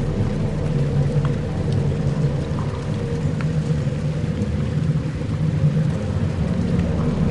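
Dark ambient music: layered low drones held steady under a hiss with a few scattered faint ticks, the drones swelling louder right at the end.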